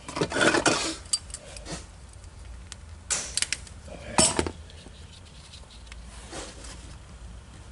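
Metal tools and parts clinking and rattling as they are handled, in short clusters: a clatter in the first second, another about three seconds in, and a sharp clink just after four seconds.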